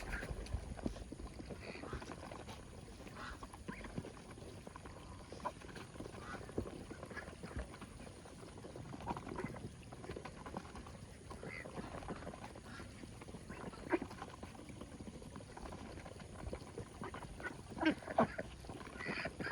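Ducks quacking on and off, in short scattered calls, with a louder run of calls near the end.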